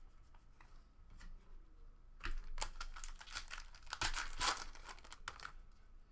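A plastic trading card pack wrapper being torn open and crinkled, with faint crackles and then a loud stretch of crackling tearing in the middle.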